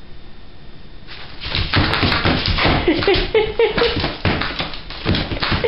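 Dog playing rough with a toy: rapid scuffling and knocking that starts about a second in, with a few short pitched sounds mixed in.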